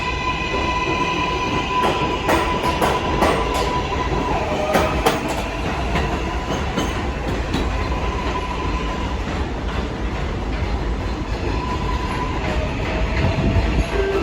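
R188 subway train running along the track, wheels clattering over rail joints, with a steady high whine that fades out a little past the middle.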